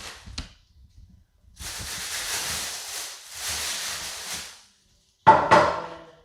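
Two hisses of about a second and a half each, then two sharp clinks of a hard object set down, ringing briefly.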